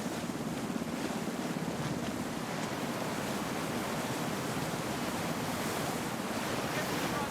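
Steady rush of rough sea and wind.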